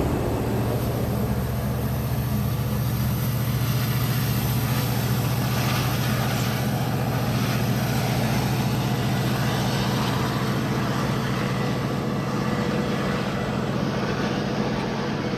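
Diesel commuter-train locomotive running with a steady, even hum and no change in speed.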